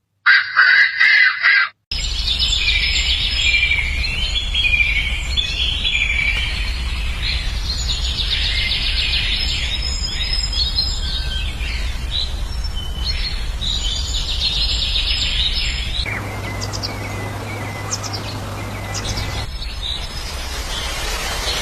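Birds chirping and twittering in many short, high calls over a steady low rumble, with the background changing abruptly a few times; near the end a steady hiss takes over.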